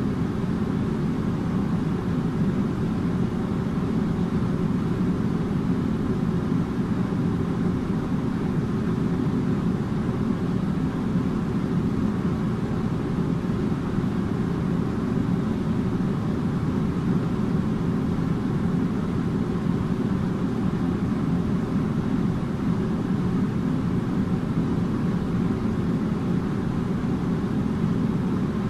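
Air conditioner running steadily: an even, low hum and rush of air with faint steady tones in it, unchanging throughout.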